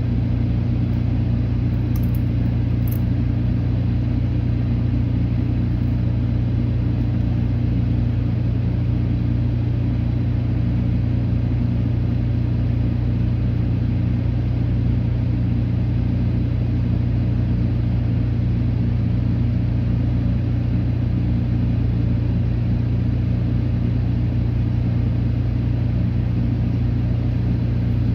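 Steady low drone of an idling car engine.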